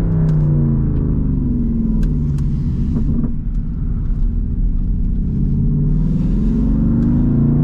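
Straight-piped exhaust of a Jeep Grand Cherokee SRT's 6.4-litre HEMI V8, heard from inside the cabin: the engine note falls as it comes off the throttle over the first few seconds, with a few sharp pops, settles low, then rises again near the end as it accelerates.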